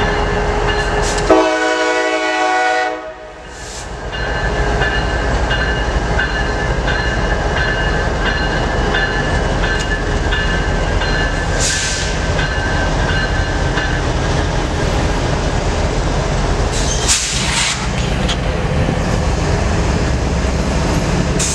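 Train running past with steady rumble and wheel noise, and a locomotive horn sounding briefly about a second in.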